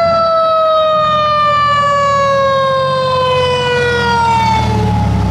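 Fire apparatus siren sounding with a slowly falling pitch, over the rumble of the truck's engine, which grows louder near the end.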